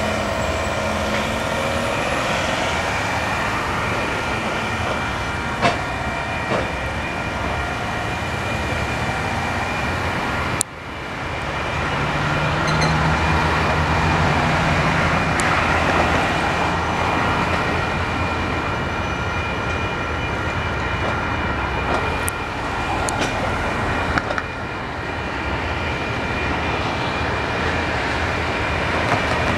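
Passenger carriages of a train rolling through a level crossing, with a steady high ringing from the crossing's warning signals.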